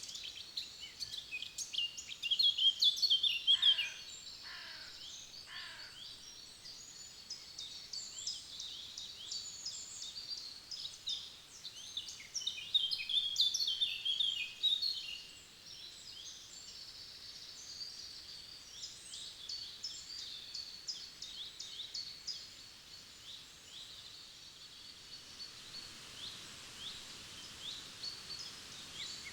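Several songbirds singing in a forest chorus of overlapping chirps and trills, loudest a few seconds in and again around the middle. Three calls that sweep down in pitch come a few seconds in, over a faint steady background hiss.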